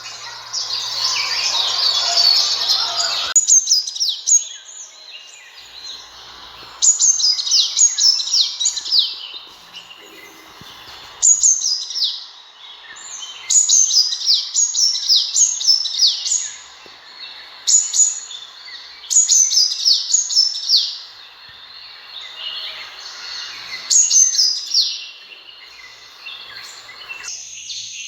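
Sunbird calling: repeated bursts of quick, high chirps, each note sweeping downward, every burst lasting about two seconds and coming back every few seconds. A louder hiss covers the first three seconds.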